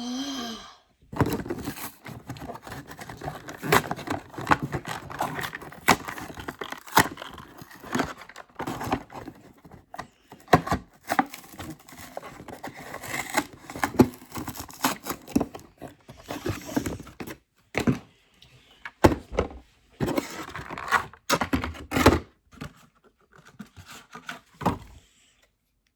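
Cardboard-and-plastic blister packaging of a toy car being pried open: irregular tearing, crinkling, scraping and knocks, in bursts with short pauses.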